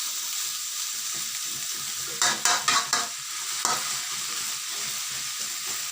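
Pickled bamboo shoot and vegetables sizzling in hot oil as they are stir-fried. A spatula scrapes and knocks against the pan several times about two to three seconds in, and once more a little later.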